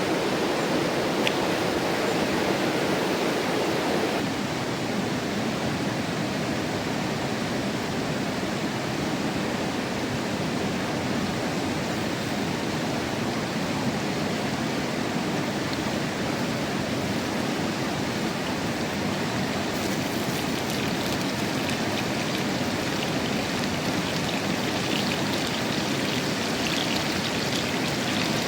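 Mountain river flowing: a steady, even rush of water, with a little more hiss in the later part.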